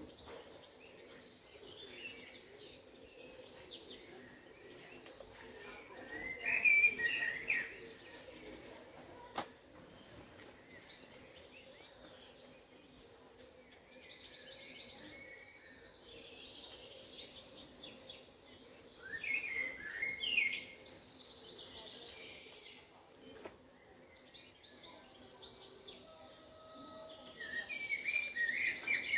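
Songbirds singing and chirping in short bursts, loudest about six seconds in, around twenty seconds and near the end, over a faint steady hum.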